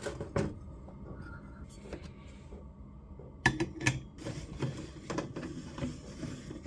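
Coffee-making gear being handled and tamped: scattered clicks and knocks, the sharpest a quick cluster about three and a half to four seconds in.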